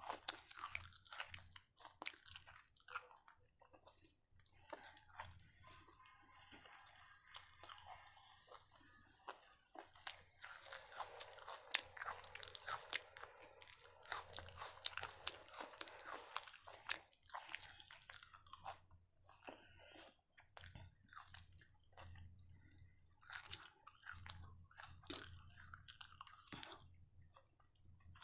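A person chewing and biting into fried chicken kebab, with scattered crisp crunches and mouth clicks, busiest around the middle.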